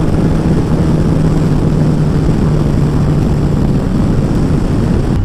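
Kawasaki ZZR1400's inline-four engine pulling hard on full throttle on a straight, under heavy wind noise on the helmet microphone.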